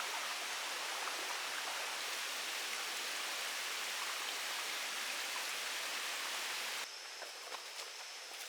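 Steady rushing water noise, cutting off suddenly near the end to quieter background with a few light ticks and a faint high steady tone.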